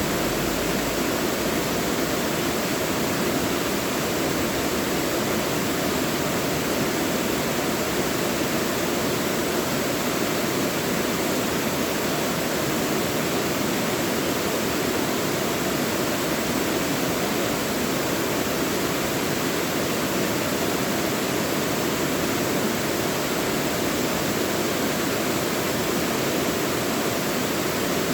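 Mountain valley stream rushing steadily over rocks, a continuous even wash of water.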